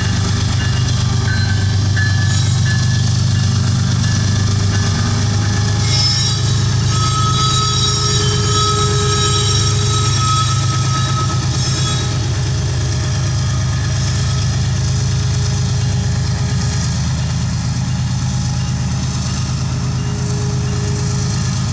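Florida East Coast Railway freight train rolling past at the crossing, a steady rumble of wheels on rail with thin high-pitched wheel squeal that comes and goes, loudest near the middle.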